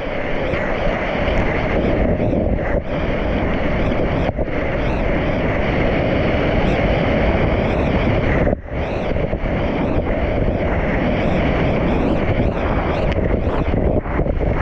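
Whitewater rapids rushing, with wind buffeting the microphone; the noise drops out briefly a few times.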